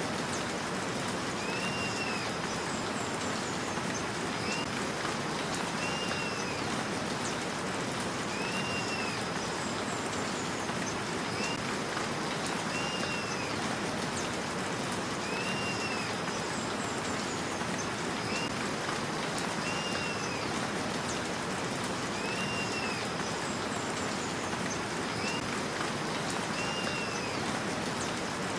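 Steady rain with a bird's short arched chirp repeating about every two seconds.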